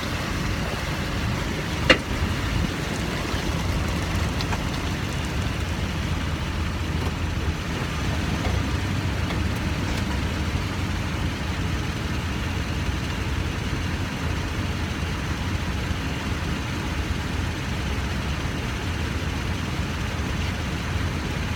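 2009 Nissan Titan pickup on the move, a steady rumble of engine and road noise, with one sharp pop about two seconds in: the popping from the front driver's side that the owner gets on right-hand turns when the underside of the truck is wet.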